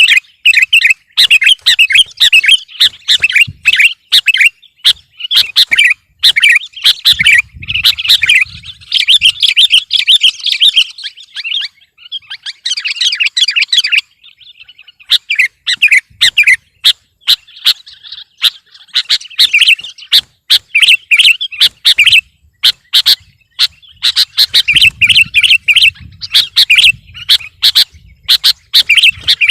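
Sooty-headed bulbul (kutilang) singing, with rapid runs of bright chirping notes and a short break about halfway through.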